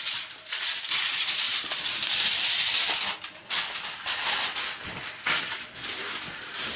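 Aluminium foil crinkling and rustling as a sheet is handled and pressed over a roasting dish, in irregular stretches with short breaks about three and five seconds in.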